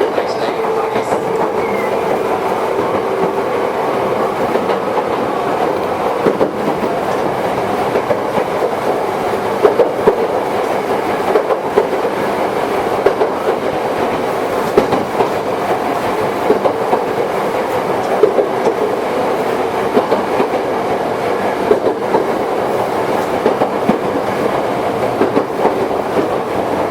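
Ex-Tokyu Toyohashi Railway 1800 series electric train heard from on board while running at speed: a steady rumble and hum, with frequent sharp clacks from the wheels passing over rail joints, thickest in the second half.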